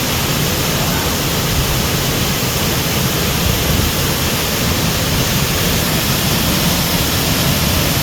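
Waterfall pouring into a river pool: a loud, steady rush of water.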